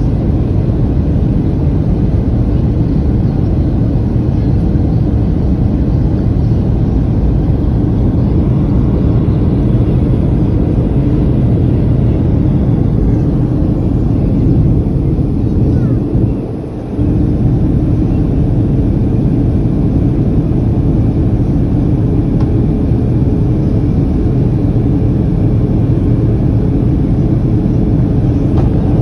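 Boeing 737 in flight on landing approach: a steady, loud rumble of engine and airflow noise as heard in the passenger cabin, dipping briefly about halfway through.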